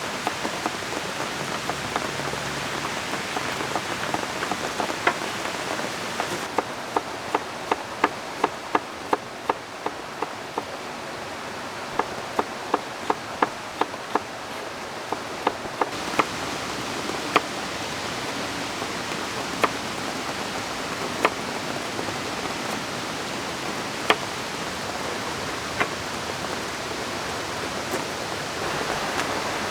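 Steady rain hiss with many sharp single ticks over it, about two a second through the middle of the stretch, then thinning out to an occasional one.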